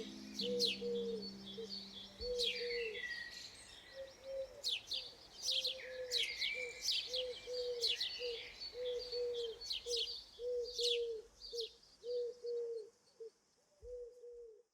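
Birds chirping and cooing: quick high chirps over a steady run of short, low cooing notes. The chirps thin out near the end, and the cooing stops just before the end.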